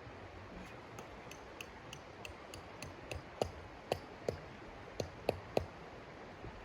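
A run of light clicks, about three a second, followed by six louder sharp knocks.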